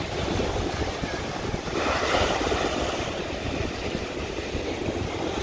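Wind buffeting the microphone over the wash of ocean surf, with a swell of surf noise about two seconds in.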